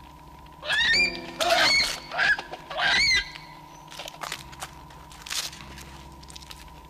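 A bird honking four times in quick succession about a second in, each call bending up and then down in pitch. A faint steady tone runs beneath.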